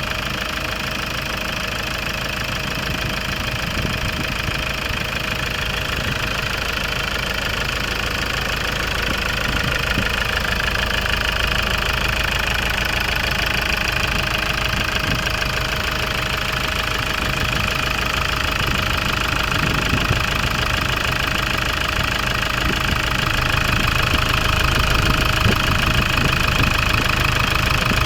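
Engine running steadily with newly installed fuel injectors.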